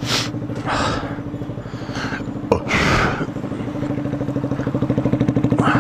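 Motorcycle engine idling with an even, steady pulse that grows louder over the last couple of seconds, broken by a few short noisy bursts and a sharp click about two and a half seconds in.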